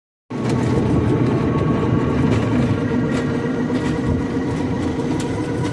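Steady rumble of a moving passenger vehicle heard from inside the cabin, with a few light rattles and clicks.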